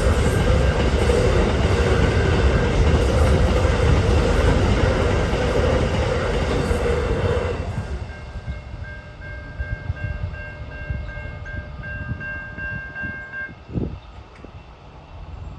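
A train passes over the level crossing, its wheels and cars running loudly until about eight seconds in, then fading. Left behind are the crossing's Safetran Type 3 electronic bells, ringing in a fast repeating pattern until they stop about thirteen seconds in.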